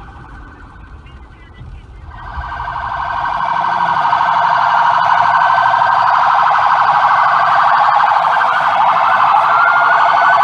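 Ambulance siren with a fast warble, swelling from about two seconds in as it comes close and staying loud, with a second siren's rising wail joining near the end. Low traffic rumble before it arrives.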